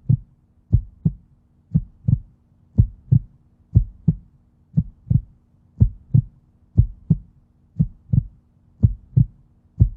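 Heartbeat sound effect: pairs of low, dull thumps, about one pair a second, in a steady even rhythm.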